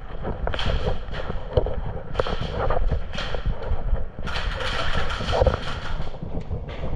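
Wind buffeting the microphone, with a low rumble throughout, broken by several bursts of rustling noise; the longest comes about four seconds in and lasts some two seconds.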